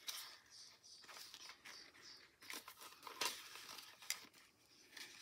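Faint rustling and crinkling of paper banknotes and envelopes being handled, with a few sharper crackles.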